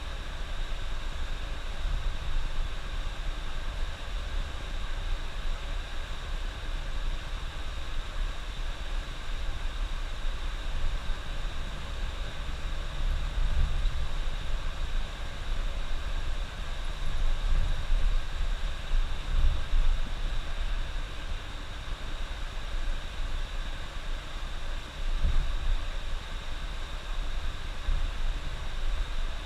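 A coach bus driving along the highway: steady engine and road rumble with a constant hiss, heard from the driver's cab.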